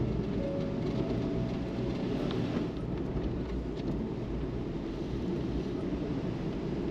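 Steady low rumble of road and engine noise inside the cabin of a Suzuki Every kei van while it is being driven.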